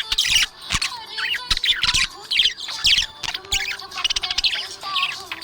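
Budgerigars chirping and warbling in a continuous run of rapid, overlapping high chirps and short squeaky calls.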